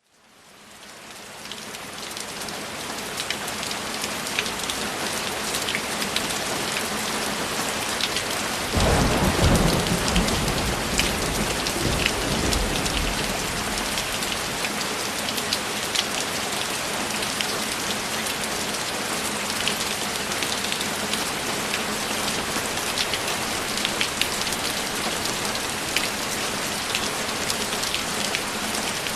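Steady heavy rain, fading in over the first couple of seconds, with a low roll of thunder rumbling for about three seconds starting around nine seconds in.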